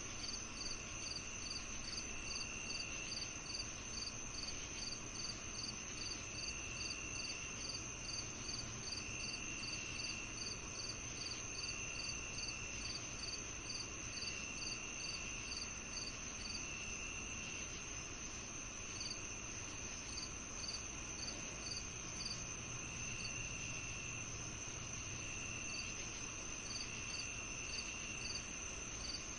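A chorus of crickets and other insects. A steady high trill runs under a rapid string of short chirps, about three a second. A lower buzzing trill comes in second-long bouts every couple of seconds.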